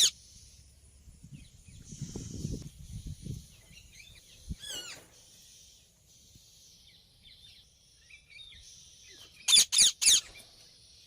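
Indian ringneck parakeet calling: soft high chirping throughout, one falling call about halfway, then four loud, shrill screeches in quick succession near the end.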